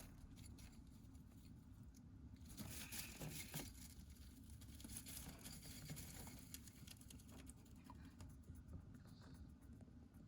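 Faint rustling and crinkling with scattered small clicks and scratches, at a very low level.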